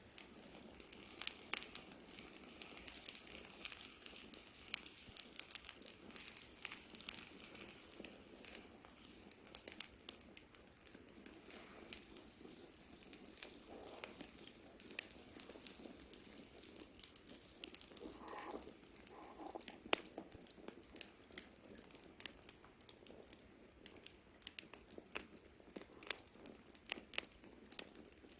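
Campfire crackling: burning wood giving off irregular sharp pops and snaps over a faint hiss.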